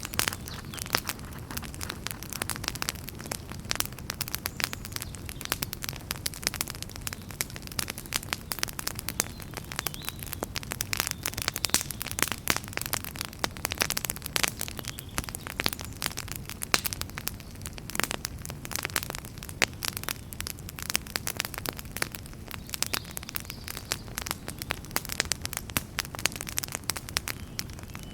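Wood fire burning in a fireplace: a steady low rumble of flames with dense, irregular crackles and pops.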